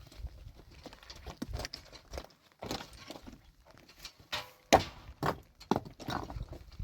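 Irregular knocks and clatters of hard objects, the sharpest strike about halfway through.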